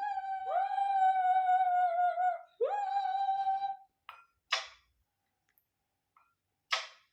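Pet animal whining: two drawn-out cries that rise quickly and then hold one high pitch, the first about two and a half seconds long, followed by two short breathy huffs.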